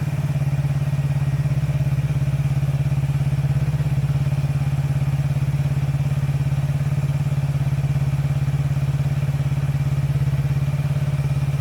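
Motorcycle engine idling steadily, an even low note with a rapid regular firing beat, left running to work an engine additive through.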